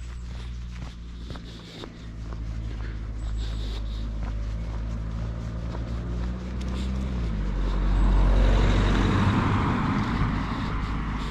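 A car's engine running close by, its note dropping about seven seconds in as it passes. Tyre and engine noise swell to the loudest point a second or two later, then ease off.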